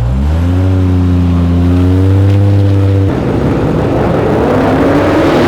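A car engine running at held revs, its pitch dipping and then steadying, giving way abruptly about three seconds in to a rougher, noisier engine sound with a faint rising pitch.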